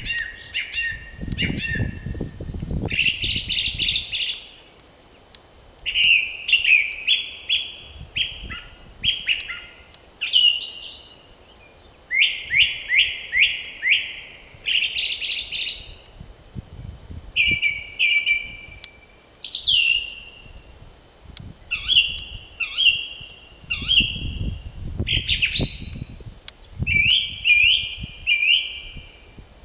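Songbirds singing in spring, one short chirping or trilled phrase after another with brief pauses between. A low rumble of wind comes in the first few seconds and again near the end.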